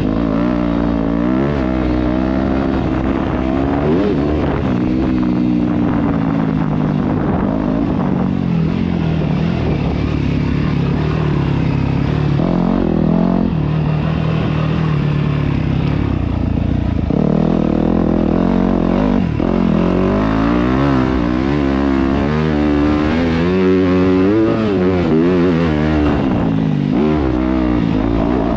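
Yamaha YZ250F dirt bike's 250cc single-cylinder four-stroke engine being ridden, its pitch rising and falling over and over as the throttle opens and closes.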